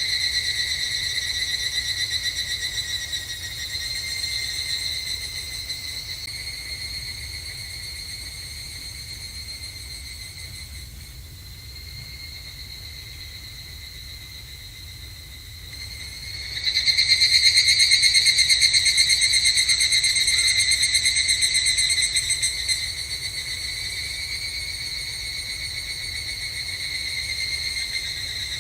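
Higurashi evening cicadas (Tanna japonensis) singing, a rapid, high, pulsing trill; the chorus fades through the middle, then a louder call starts abruptly just past halfway and eases off again near the end.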